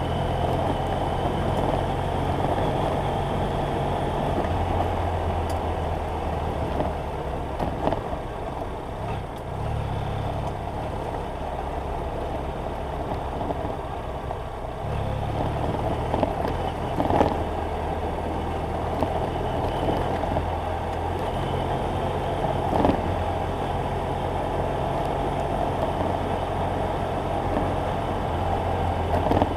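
BMW F800GS Adventure's parallel-twin engine running while riding, its pitch stepping up and down with throttle and gear changes. A few sharp knocks come through, around a quarter and again past halfway.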